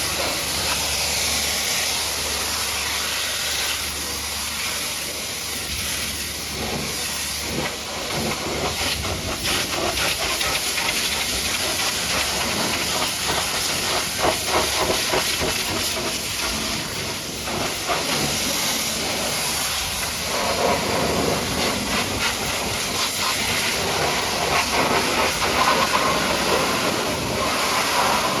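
High-pressure washer jet spraying water against a truck: a steady loud hiss with a spattering, shifting texture as the spray moves over different surfaces.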